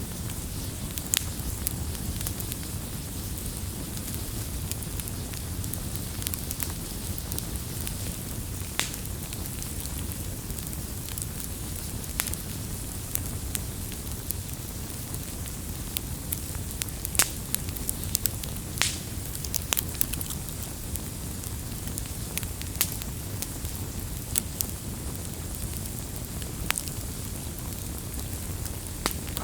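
Campfire burning with a steady low rumble and irregular sharp crackles and pops of burning wood.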